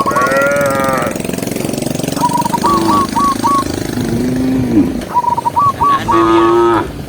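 Cattle mooing several times: a call that falls in pitch at the start, a lower call that rises and falls in the middle, and a steady call near the end. A fast, steady pulsing noise runs underneath.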